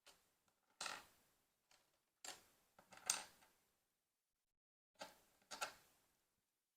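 Faint clicking and clattering of small plastic LEGO pieces being handled, in several short bursts with pauses between. The loudest burst comes about three seconds in.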